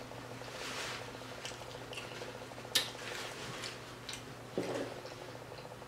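Close-miked chewing and wet mouth sounds of a person eating, with small ticks throughout, one sharp click about three seconds in, and a brief hum near the end.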